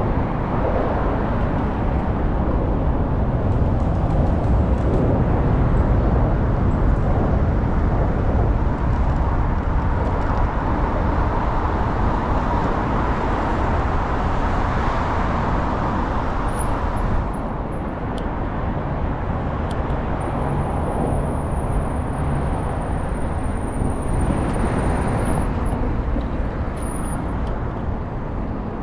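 Steady rumble of a city bus riding through streets, heard from inside the cabin, with a thin high-pitched whine coming in briefly past the middle and again for several seconds near the end.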